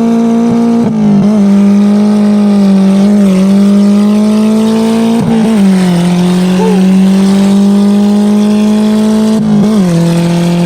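Honda K24 four-cylinder engine through a hood-exit exhaust, pulling hard at high revs. The note holds fairly steady with brief dips in pitch about a second in, midway and near the end, as the car is driven.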